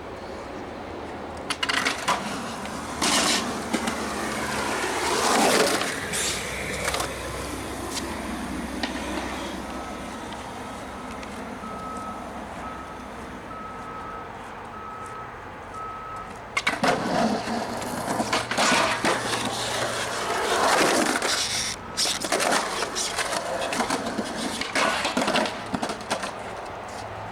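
Skateboard wheels rolling, with the clatter and snaps of the board hitting the ground. It comes in two spells: a short one a couple of seconds in, and a longer one through most of the second half. A faint repeating beep sounds in the quieter middle stretch.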